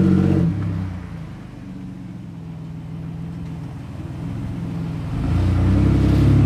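A car engine running. It drops back about half a second in, stays quieter for a few seconds, then comes back up loud and steady about five seconds in.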